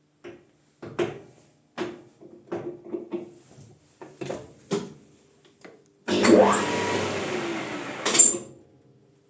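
Several short knocks and clicks, then a lathe spinning a bicycle disc brake rotor for about two seconds, a steady rushing noise with a whine that shifts in pitch, ending in a sharp burst as it stops.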